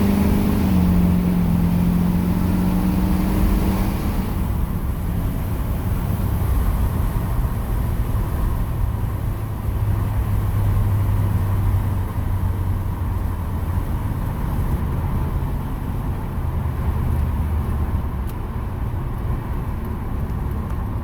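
2006 LBZ Duramax 6.6-litre turbodiesel V8 with a 4-inch MBRP straight-pipe exhaust, heard from inside the cab while driving. A loud exhaust drone under load for the first few seconds eases off about four seconds in to a steady, lower rumble.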